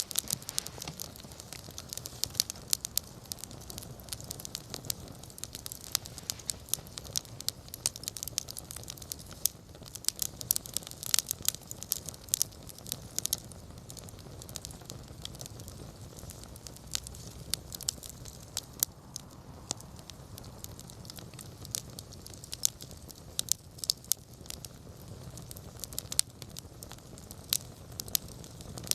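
Wood campfire crackling, with many irregular sharp pops and snaps over a steady low rumble of burning.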